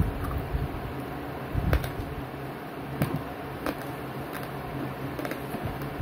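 Close-up chewing of crispy lechon kawali (deep-fried pork belly), with scattered crunches and mouth sounds over a steady low hum.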